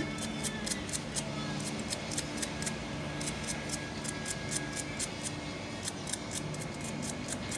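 Many quick, light clicks and scraping, several a second, as a ground connection is worked and cleaned by hand, over a low steady hum.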